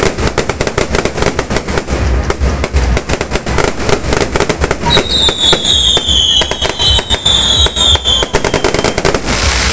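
Fireworks going off in rapid, continuous bangs and crackles, with a high whistle that falls slightly in pitch for about three seconds from around halfway in.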